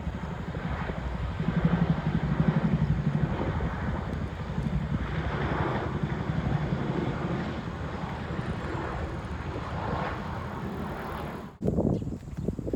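Wind buffeting the microphone in gusts, a rough rumbling rush that swells and eases, breaking off suddenly about eleven and a half seconds in.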